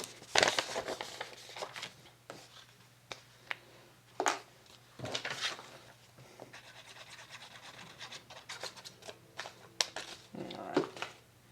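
Paper being handled and rubbed as pieces are glued down, heard as scattered short scratchy rustles and taps, with louder bursts near the start, in the middle and near the end.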